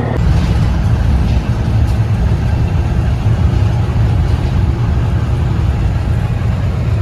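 Heavy diesel engine running loudly, a dense low rumble.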